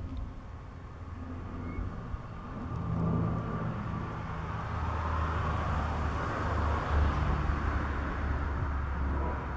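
Bombardier Dash 8 Q300 twin-turboprop airliner flying over: a low propeller hum under a rushing engine-and-air noise that swells about three seconds in and stays strong through the rest.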